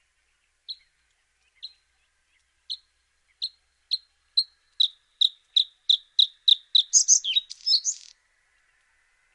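A songbird's song phrase: a few spaced high notes about a second apart that speed up into a fast run of repeated notes, ending in a brief jumbled flourish.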